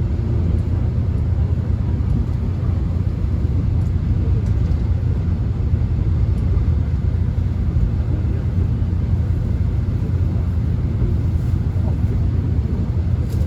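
Subway train running, heard from inside the passenger car: a steady, even low rumble.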